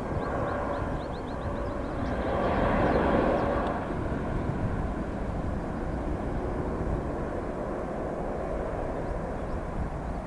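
Jet airliner on landing approach passing by. Its engine noise swells to its loudest about three seconds in, then fades into a steady rumble.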